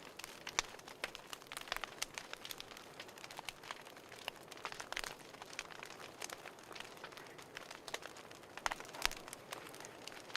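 Wood fire crackling: irregular sharp pops and snaps, several a second, over a soft hiss, with a louder pop about half a second in and another near the end.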